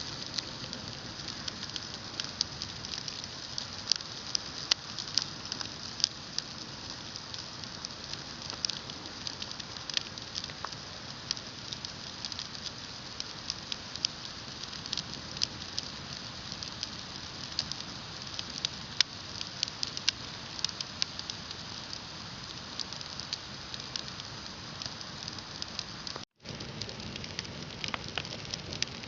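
Large bonfire burning: a steady hiss with frequent, irregular sharp crackles and pops. The sound drops out for an instant near the end.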